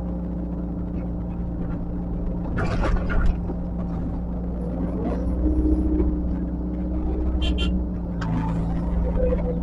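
Heavy diesel earthmoving machine running steadily, with bursts of metallic clanking, the loudest about three seconds in, and a brief high squeak near the end.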